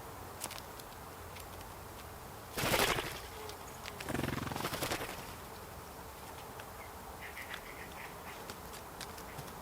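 Two loud, harsh animal calls about a second and a half apart, the second one longer, followed near the end by faint high chirps.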